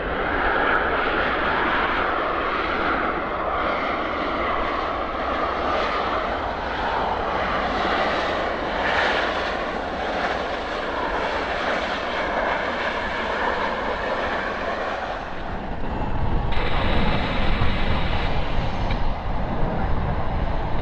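Jet engines of an Air Transat Boeing 737-800 airliner running steadily with a whining hiss. About fifteen seconds in, the sound turns heavier and louder with a deep rumble.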